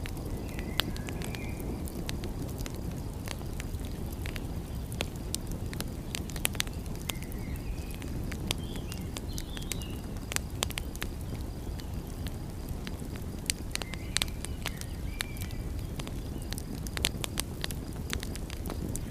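Wood fire crackling with frequent sharp pops over a steady low rumble of sea surf. A few faint high chirps come now and then.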